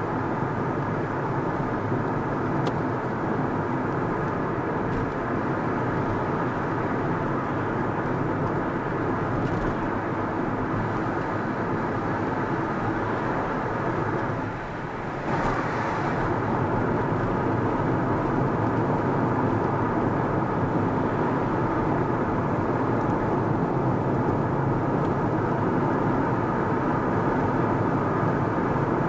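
Car on the move: steady engine and tyre noise on the road, which dips briefly about halfway through and then picks up again.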